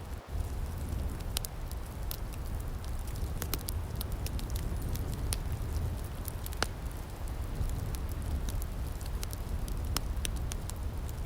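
Outdoor wood fire crackling, with irregular sharp pops and snaps over a steady low rumble.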